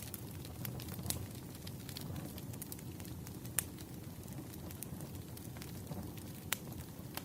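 Wood fire burning: a steady low rumble of flames with irregular sharp crackles and pops from the burning logs, two louder pops about three and a half and six and a half seconds in.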